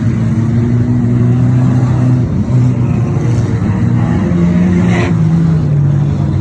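Engines of 2-litre banger cars running and revving, their pitch stepping up and down.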